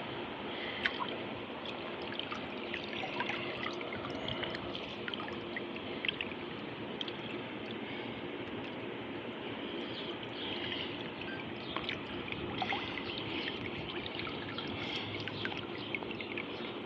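Water noise picked up by the microphone of a submerged Insta360 Go 2 action camera: a steady rushing and gurgling with scattered small clicks and crackles.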